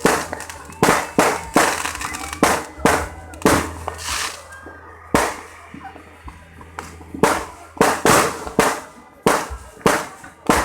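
New Year fireworks going off: about fifteen sharp bangs at irregular intervals, some in quick pairs, with a sparser stretch in the middle.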